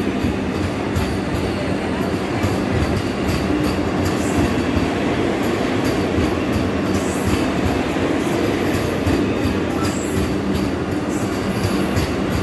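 Vande Bharat Express electric multiple-unit train running past a station platform without stopping. Its coaches make a steady rumble, with scattered clicks of the wheels over the rails.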